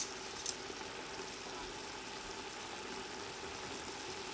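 Stir-fried vegetables (bok choy, carrots, bell peppers) sizzling faintly and steadily in a stainless steel pot on the stove, over a low steady hum, with a short click about half a second in.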